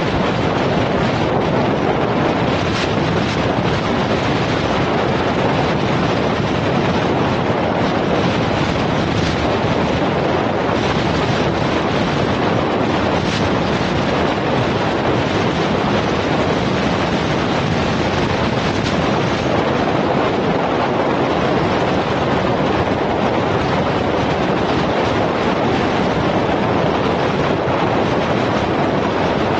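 Steady, loud rush of wind and road noise on the camera microphone of a moving vehicle in traffic.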